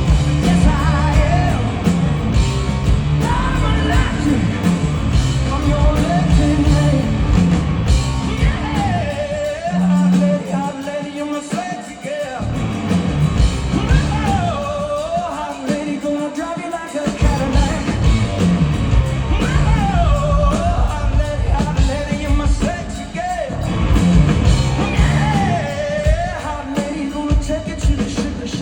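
Live rock band playing loudly: a singer's sliding, wordless vocal over electric guitar, bass and drums. The low end drops away for several seconds in the middle, then the full band comes back in.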